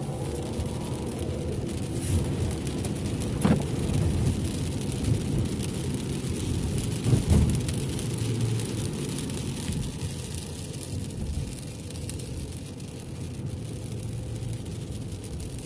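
Car driving on a wet road in the rain, heard inside the cabin: a steady low rumble of tyres and engine with a hiss of rain and spray. Two brief thumps come about three and a half and seven seconds in.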